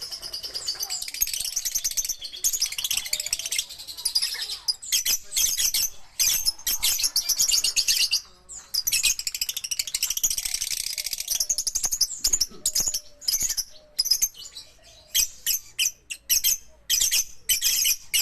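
Lovebirds chattering: a dense stream of rapid, high-pitched chirps that breaks off briefly twice, then turns into separate quick chirps over the last few seconds.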